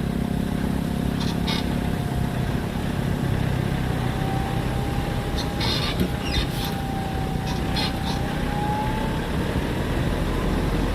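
A motor vehicle running with a steady low rumble, a faint thin whine drifting slowly in pitch, and a few short high-pitched sounds about a second in and again midway.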